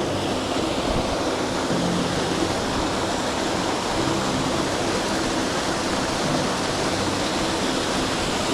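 Rushing water of a mountain brook and its waterfall, a steady even rush.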